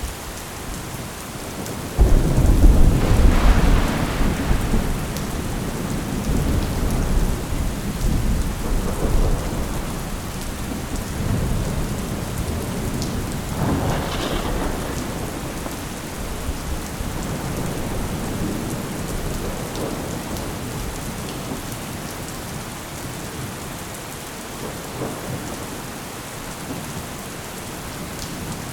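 Thunderstorm: steady rain with a sudden loud thunderclap about two seconds in that rumbles away over several seconds, and a second rumble of thunder about halfway through.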